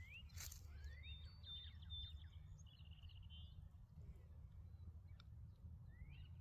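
Faint birdsong: a few short upward-sliding chirps and a brief run of high, quick notes near the start and middle, over a low steady background rumble.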